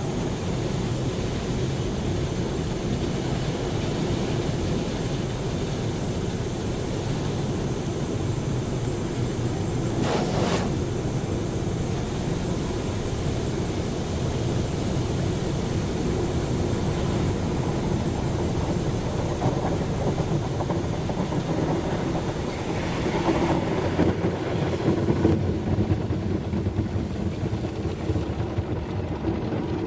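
Automatic car wash running around a car: a steady wash noise, with a sharp knock about ten seconds in and a few louder thumps and swishes near the end.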